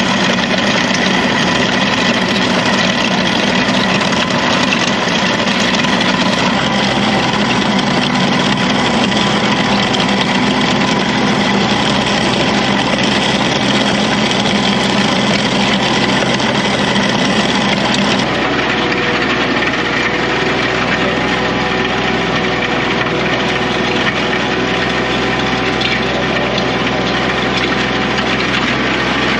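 Kioti CK3510 compact tractor's diesel engine running steadily under load, with the grinding and scraping of a land plane's ripper shanks churning through driveway gravel. The sound shifts in character about two-thirds of the way through.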